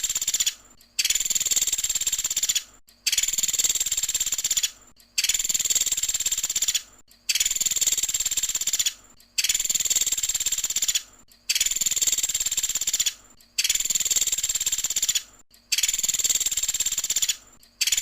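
Woodpecker (the 'pelatuk sampit' of Indonesian bird keeping) giving a fast rattling call again and again. Each call lasts nearly two seconds and comes about every two seconds, nine times over, like a recording played in a loop.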